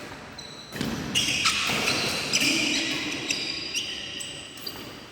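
Badminton rally sounds: rackets hitting the shuttlecock in repeated sharp pops, with shoes squeaking briefly on the court floor.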